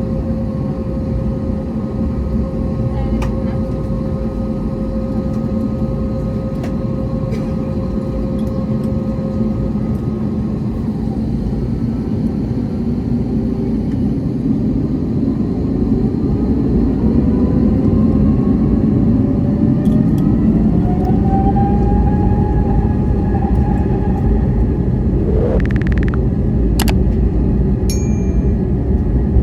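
Airbus A321neo jet engines heard from the cabin: a steady rumble, then about halfway through the engines spool up with a rising whine and the rumble grows louder, as when thrust is applied. A few sharp clicks near the end.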